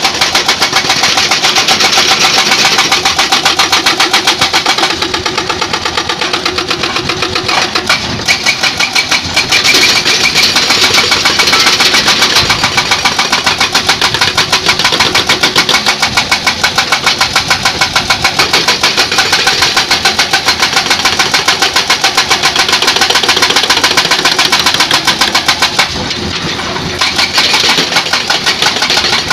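Excavator-mounted hydraulic breaker hammering rock with a rapid, even run of blows over the engine, stopping briefly near the end before it starts hammering again.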